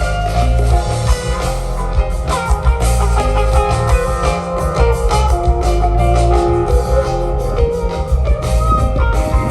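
Live rock band jamming without vocals: electric guitar lines with bending notes over bass and a drum kit.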